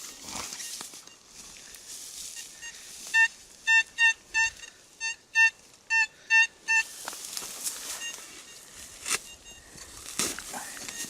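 Metal detector sounding its target tone: about nine short, same-pitched beeps in quick, slightly irregular succession over three and a half seconds, starting about three seconds in, as the coil passes back and forth over a buried metal target. Faint rustling and scraping around it.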